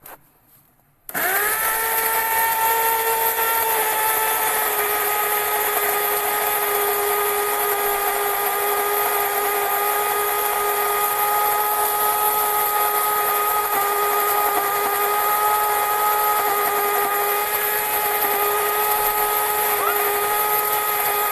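Electric blender running at a steady speed to grind cooking ingredients, a motor whine with a hiss, starting abruptly about a second in and winding down with a falling pitch at the end.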